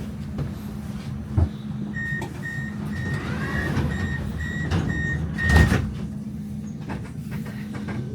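Tram door warning beeps, about two high beeps a second for nearly four seconds, ending as the doors shut with a thump, over the steady hum of the tram. There is a single knock about a second and a half in.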